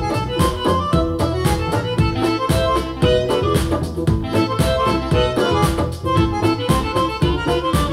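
Jazz music played back through hi-fi bookshelf loudspeakers and picked up by a microphone in the room, with a regular beat, a bass line and a melody line throughout.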